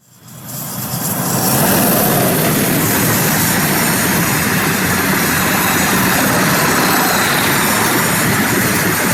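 Freight train passing close by: a loud, steady rushing rumble that rises quickly from silence over the first second or so, then holds.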